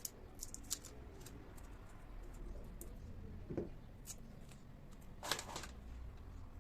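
Scattered light clicks and taps at irregular intervals, with a short cluster of them a little after five seconds and one brief lower sound about three and a half seconds in.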